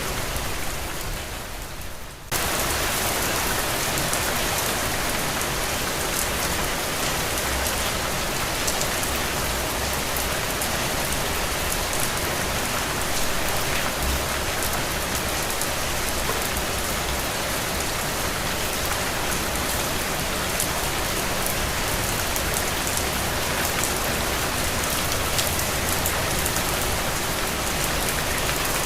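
Steady rain falling, an even hiss of many drops. In the first two seconds it fades down, then cuts back in suddenly at full level and runs on evenly.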